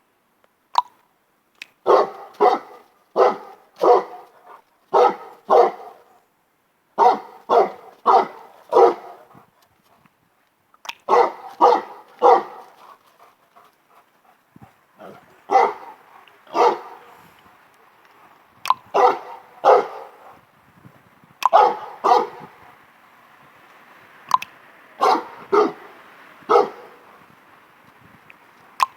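Great Dane barking repeatedly, in bursts of two to four barks separated by short pauses.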